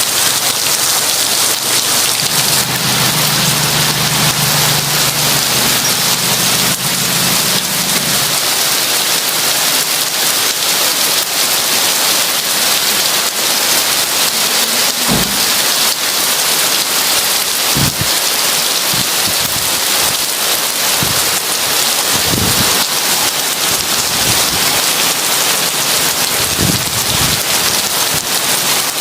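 Heavy rain pouring steadily, with a low thunder rumble a few seconds in that lasts about five seconds. Later come several short, low thumps.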